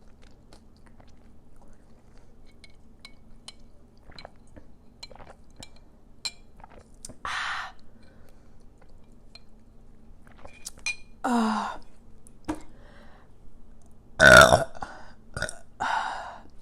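Close-up crunching and chewing of crispy oven-baked onion rings, a run of small crisp clicks. Louder throaty sounds break in, burps, one with a falling pitch at about 11 seconds in and the loudest about 14 seconds in.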